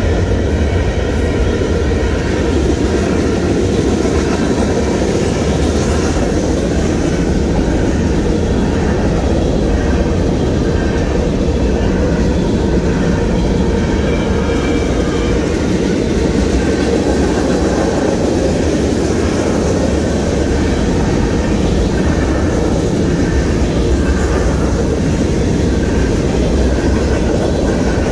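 Freight train cars rolling steadily past: a loud, even rumble and rattle of steel wheels on the rails, with no let-up.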